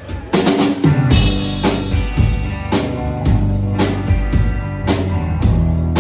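A live rock band launching into a song. Strummed guitar opens it, and drums and bass come in about a second in with a steady beat.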